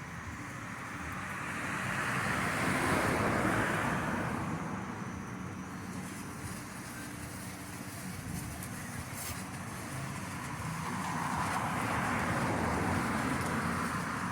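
Two road vehicles passing by one after the other, each a rushing sound that swells up and fades away over a few seconds. A few faint pops come in between.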